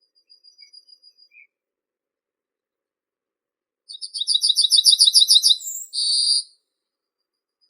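A small songbird singing: a faint, thin series of high notes, then about four seconds in a loud, fast run of about a dozen repeated chirps ending in a short buzzy note.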